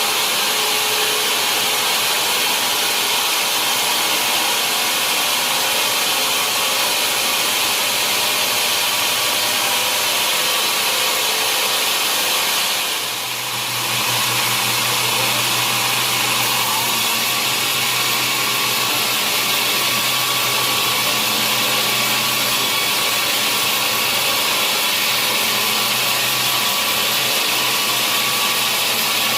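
Sawmill saw cutting through a large log: a steady, loud noise with a brief dip about thirteen seconds in, after which a low steady hum joins it.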